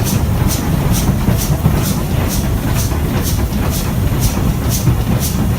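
Steam locomotive running under way, its exhaust beats coming evenly about two and a half times a second over a heavy, steady rumble from the train.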